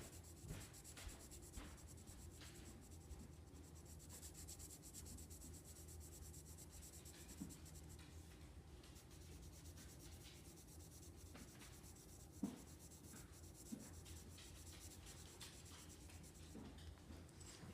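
Pencil lightly shading on paper: a faint, fast scratching of short back-and-forth strokes, over a low steady hum.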